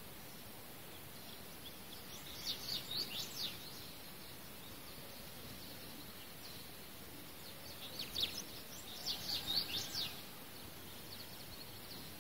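A songbird singing in the background: two short phrases of quick, falling high chirps, a few seconds apart, over a steady hiss.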